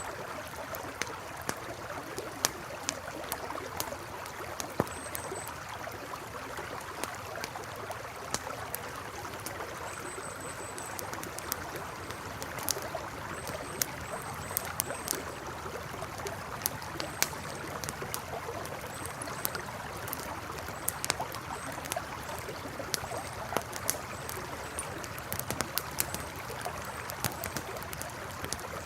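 Campfire crackling with frequent sharp pops over the steady rushing of a river. Faint, short, high chirps come and go.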